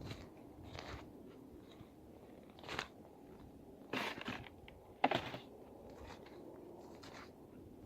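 Faint footsteps crunching on the ground, a few steps roughly a second apart.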